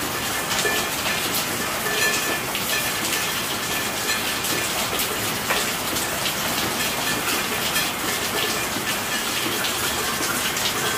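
Steady rainfall: a dense, even hiss with many small sharp taps of drops striking.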